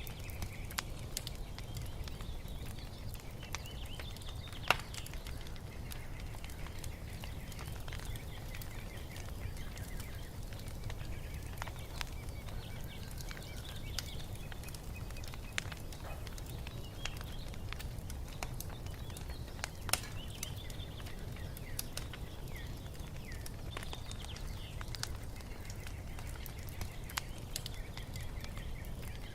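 Wood fire crackling, with scattered sharp pops (two stand out, about 5 and 20 seconds in) over a low steady rumble, and small birds chirping throughout.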